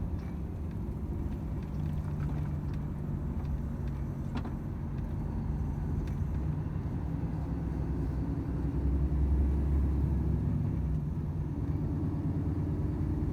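Volvo FH 500 truck's 13-litre inline-six diesel running on the road, a steady low drone with road rumble. It swells a little about nine seconds in.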